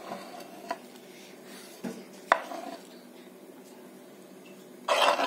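Utensil clinking against a dish while grated beetroot is laid out: a few sharp separate taps, then a louder scraping rustle near the end.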